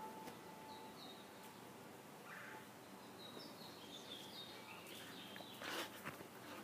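Quiet outdoor ambience with a few faint, short, high bird chirps. A brief rustle comes near the end.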